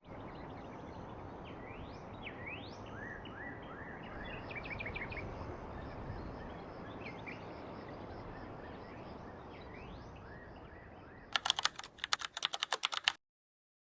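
Birds chirping with repeated quick rising calls over a steady outdoor background. Near the end, a fast run of about a dozen sharp clicks, after which the sound cuts off.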